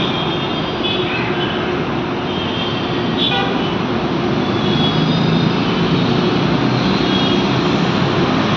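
Loud, steady noise of passing vehicles, with brief faint higher tones now and then.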